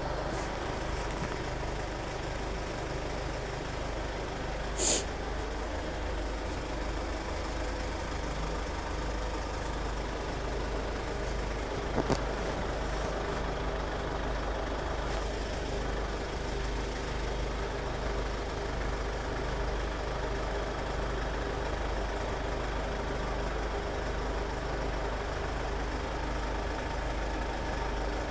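A vehicle engine idling steadily, with a short sharp hiss about five seconds in and a single click around twelve seconds.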